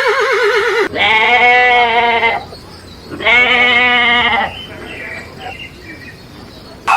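The quavering tail of a whinny, then two long, wavering bleats of farm livestock, each about a second and a half, with fainter scattered calls after them.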